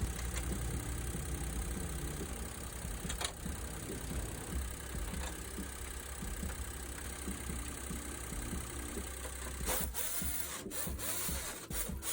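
Daihatsu Hijet engine idling steadily. A few sharp clicks or knocks come near the end.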